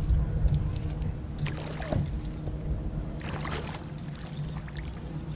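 Water and handling noise aboard a fishing kayak: a low rumble that fades, with a few sharp splashes or knocks about two seconds in and a louder patch of them a little past the middle.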